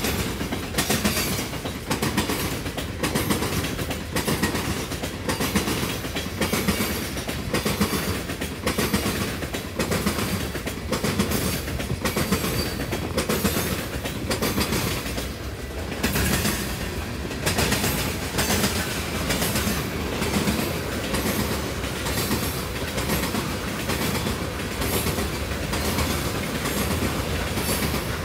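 Freight train of hopper cars rolling past close by, a steady rumble with the steel wheels clacking about once a second.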